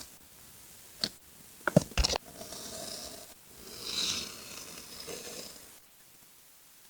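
Paper-craft handling: a few sharp taps and clicks in the first two seconds, then about three seconds of paper rustling and tearing that stops suddenly.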